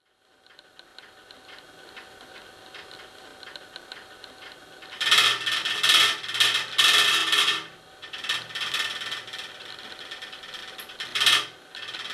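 Home-made pop-pop steam engine running with a rapid ticking rattle, faint at first and growing much louder about five seconds in, in loud stretches that come and go.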